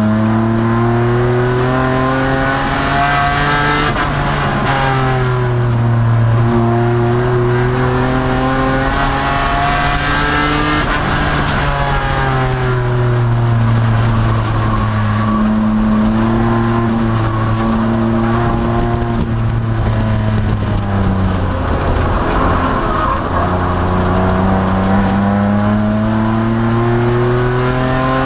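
2002 Nissan Maxima race car's V6 engine under racing load, its pitch climbing steadily under acceleration and dropping off under braking, lap after lap through the corners, with a few sudden pitch steps at gear changes.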